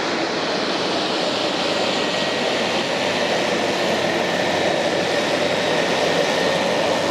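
Business jet engines running, a steady dense rushing noise with a faint high whine, growing slightly louder.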